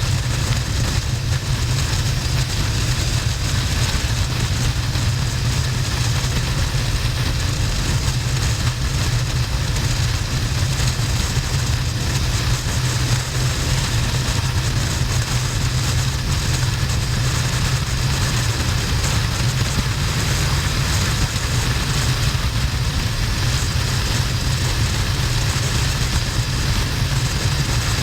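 Harley-Davidson Sportster XL1200N's air-cooled V-twin droning steadily at motorway speed, under heavy wind rush on the helmet- or bike-mounted camera microphone.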